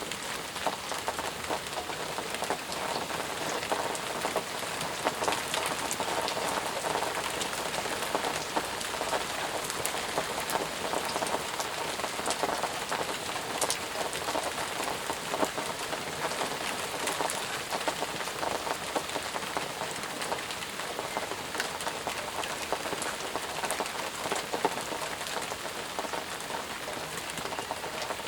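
Steady heavy rain falling and pattering on surfaces, with many individual drops ticking through the constant hiss.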